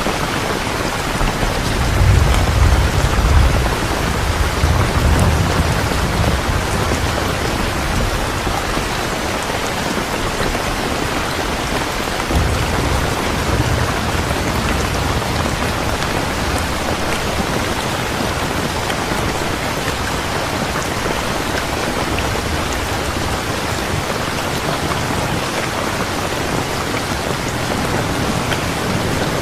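Steady heavy rain, with a low rumble of thunder a couple of seconds in and a weaker one near the middle.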